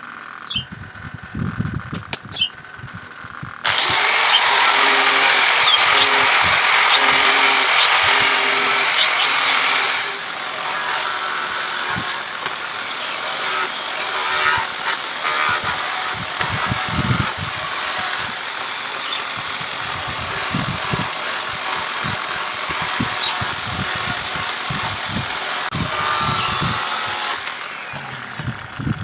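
A power tool starts suddenly about four seconds in and runs loud and steady for about six seconds, then goes on more roughly and a little quieter with scraping and ticking until near the end. Birds chirp at the start and again at the end.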